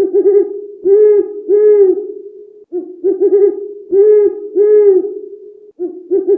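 An owl hooting in a repeated phrase: a quick double hoot followed by two longer, arched hoots, the phrase coming round about every three seconds.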